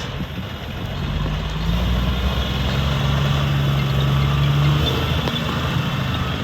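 Dump truck's diesel engine running. It builds in loudness about a second in, holds a steady, stronger tone, then eases off near the end.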